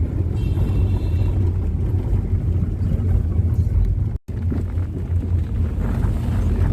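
A steady low rumble, cut off for a moment about four seconds in.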